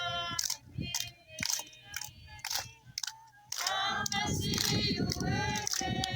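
People singing together, with held, wavering notes; the singing grows fuller and louder about halfway through.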